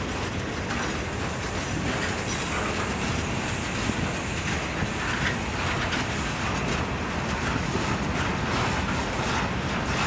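A train's cars rolling past, a steady rumble and rattle of steel wheels on the rails.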